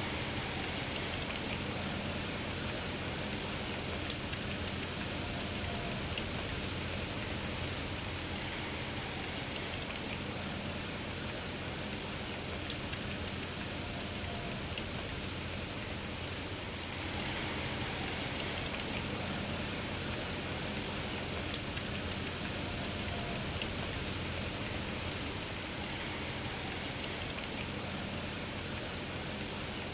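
Steady rain falling, an even hiss of drops, with three louder single drop hits standing out sharply about four, thirteen and twenty-two seconds in.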